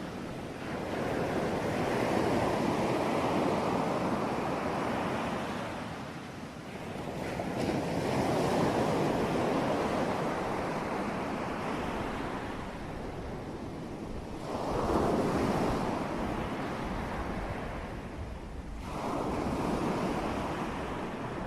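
Ocean waves breaking on a shore, a steady wash of surf that swells and falls back in long surges, about four of them, every few seconds.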